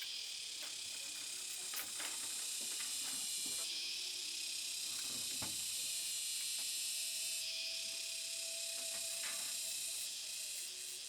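Steady, high-pitched insect chorus whose pitch band shifts twice, about a third and two-thirds of the way through, with a few faint scattered knocks underneath.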